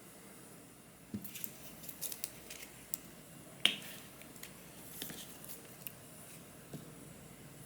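Scattered light clicks and taps of small utensils and miniature kitchenware being handled, starting about a second in, with one sharper click a little past the middle.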